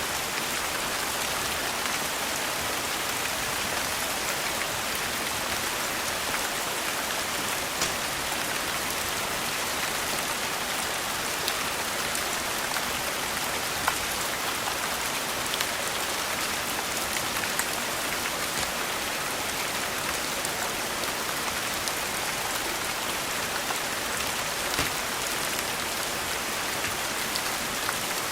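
Steady rain falling on a surface, an even hiss with scattered sharp ticks now and then.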